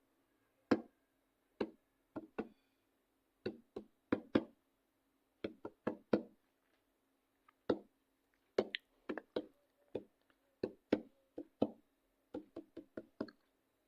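A string of sharp knocks at uneven intervals, some single and some in quick pairs, over a faint steady hum.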